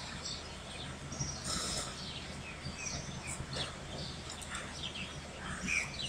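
Faint background sound: scattered short, high bird chirps over a steady low electrical hum.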